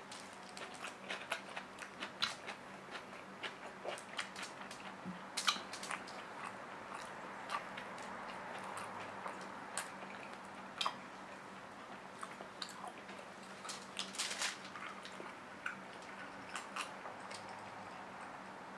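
Close-miked chewing and lip smacks of a person eating braised pork trotter and rice with his fingers: irregular wet clicks and smacks. A faint steady hum sits underneath.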